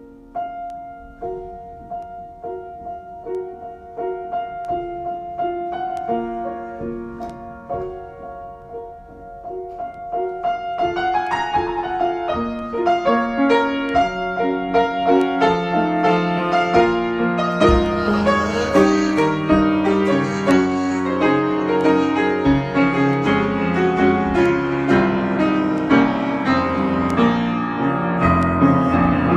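Piano improvisation with sustained notes, starting sparse and quiet and building denser and louder from about ten seconds in.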